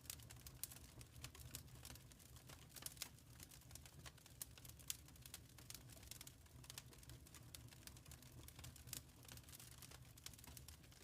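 Faint wood fire crackling: irregular small snaps and pops over a low rumble of the burning logs.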